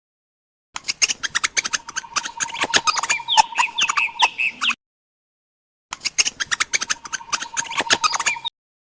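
Birds squawking and chirping in fast, dense calls, in two stretches of a few seconds each with a silent gap between.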